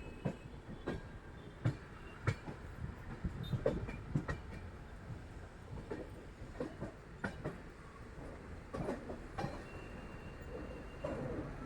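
Express passenger train running on the rails: a steady low rumble with irregular knocks and clacks from the wheels and coaches.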